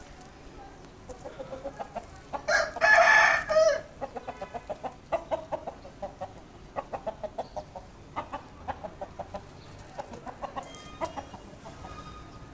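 Heera Aseel chickens: a loud crow lasting a little over a second, about two and a half seconds in, then runs of short clucks through the rest.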